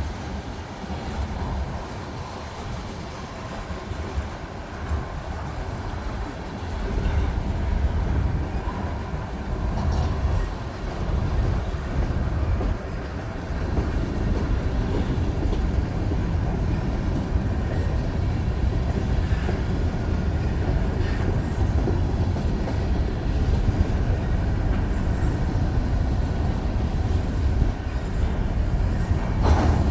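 Union Pacific freight train rolling slowly past, a steady rumble of railcar wheels on the rails that grows louder a few seconds in.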